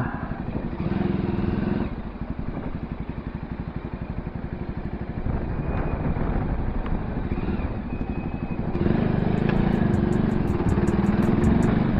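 Voge 300R's single-cylinder motorcycle engine running under way. It grows louder briefly about a second in and again over the last three seconds.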